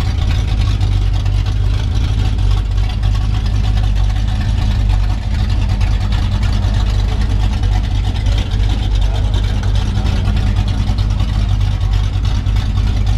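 Loud, steady car exhaust rumble from open exhaust dump pipes.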